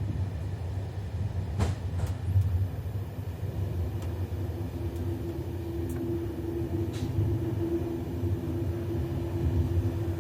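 Doğu Ekspresi passenger train running: a steady low rumble with a few sharp clicks, and a steady hum that joins about four seconds in.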